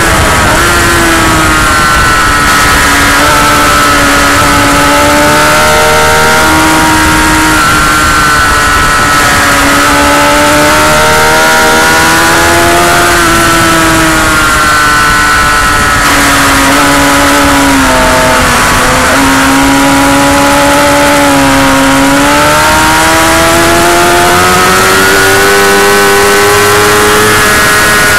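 Motorcycle engine running hard while lapping a racetrack, its pitch climbing under acceleration and dropping back at gear changes and braking, over a steady rush of wind noise.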